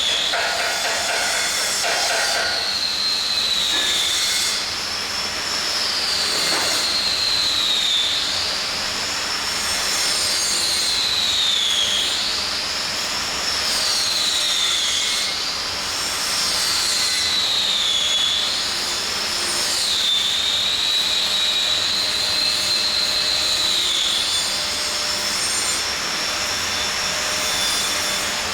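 High-pitched machine whine over a steady hiss, its pitch sagging and climbing back every two to four seconds.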